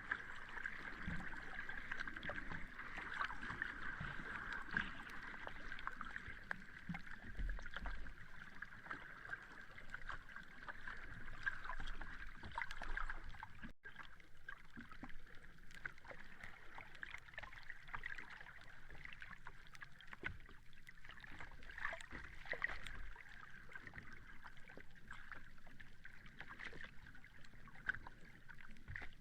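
Sea water lapping and washing on a beach, a steady fizzing wash with many small crackles. The sound breaks off for an instant about halfway through.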